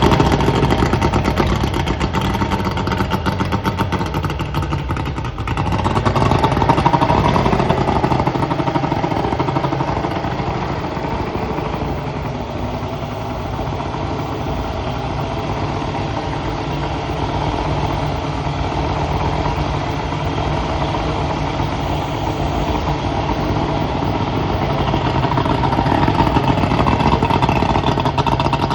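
Mercury 150 two-stroke V6 outboard motor running steadily just after start-up, on test after a carburettor and float rebuild. It swells slightly louder a few seconds in and again near the end.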